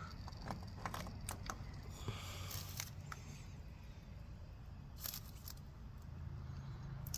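Scattered small clicks and a brief rustle of hand work on a motorcycle during an oil change.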